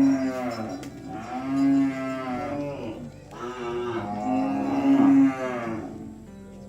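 Cattle mooing: a series of drawn-out moos, one after another, the last and longest ending about five and a half seconds in.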